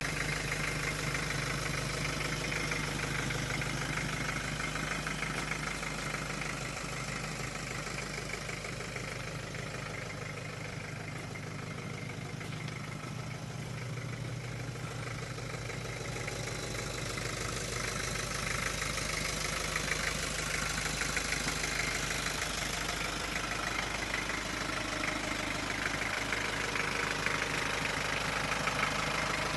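1999 Isuzu Trooper's engine idling steadily, a little louder near the end.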